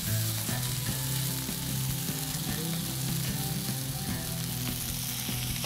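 Chicken chullu kebabs sizzling steadily as they shallow-fry in a little oil in a frying pan, with a few light clicks of metal tongs against the pan. A steady low hum runs underneath.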